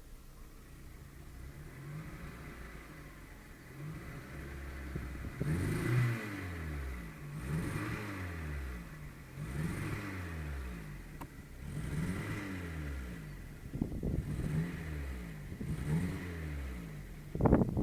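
Skoda Fabia 1.4 MPI petrol engine idling, then revved up and let fall back about six times, roughly every two seconds, with a sudden louder, rougher burst at the very end. The car has a misfire that the owner traced to a bad third-cylinder injector.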